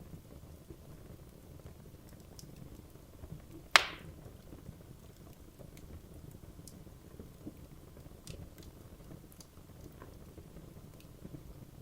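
Wood fire in a fireplace burning with a low steady rustle and scattered faint crackles, and one loud sharp pop a little under four seconds in.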